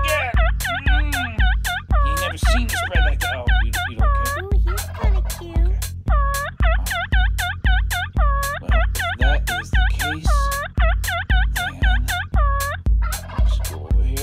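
Electronic dance track built from turkey gobbles and calls, chopped and repeated in time over a steady kick drum at about two beats a second, with a short break in the call pattern about four to six seconds in.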